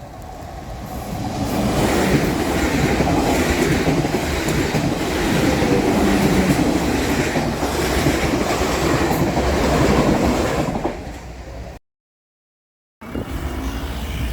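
A train passing close by on the line: its rumble and wheel noise build up over the first two seconds, stay loud for about eight seconds, then fade. The sound cuts out about twelve seconds in and a different scene's sound starts shortly after.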